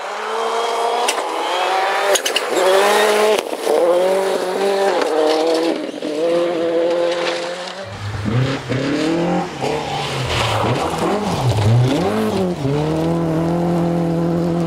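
Rally car engine at full throttle, its pitch climbing and dropping with quick gear changes. Near the middle the sound changes abruptly to a deeper engine note that dips and swells before holding steady.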